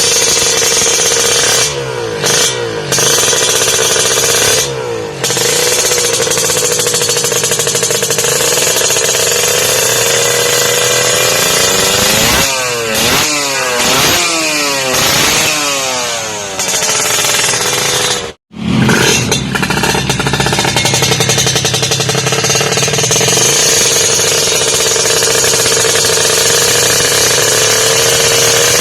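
Kawasaki Ninja 150 two-stroke single-cylinder engine running through a WRS aftermarket exhaust, held at a steady speed and blipped, with a quick run of several revs rising and falling in the middle. The sound drops out for an instant about two-thirds of the way through, then the steady running resumes.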